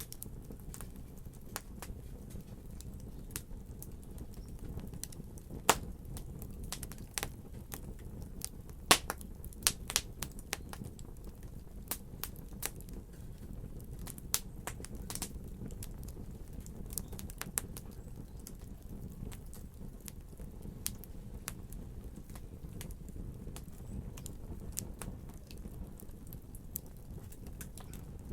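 Wood fire burning in a fireplace: a steady low rumble of flames with scattered crackles and sharp pops, a cluster of the loudest pops about six to ten seconds in.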